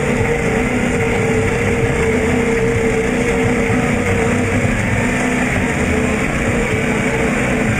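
Truck engine running loud and steady at high revs, holding an even pitch throughout.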